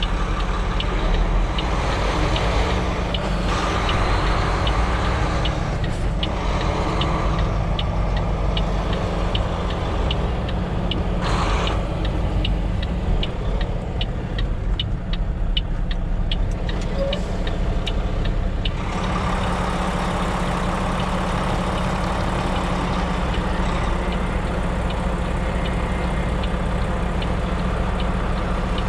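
Semi truck's diesel engine running at low speed while the rig is maneuvered into a parking spot, with a fast regular ticking over it for the first two thirds and a short hiss about eleven seconds in.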